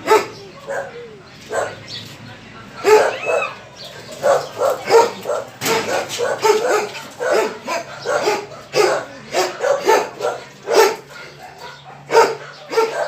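Dog barking and yipping repeatedly, short barks in quick irregular succession.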